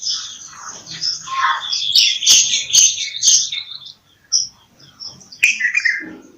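Bulbul calling with quick, overlapping chirps and whistled notes, densest and loudest in the middle, broken by a few sharp clicks and a short pause about four seconds in.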